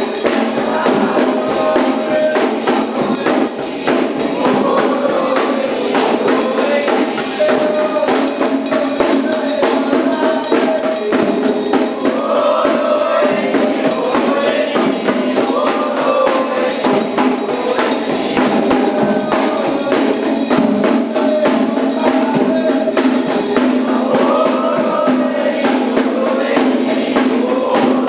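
Candomblé ceremonial music: a group of voices singing over a steady, driving pattern of hand percussion.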